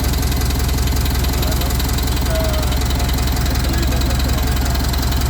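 Mitsubishi Fuso 4P10 four-cylinder turbodiesel engine idling steadily, with an even, rapid pulsing beat.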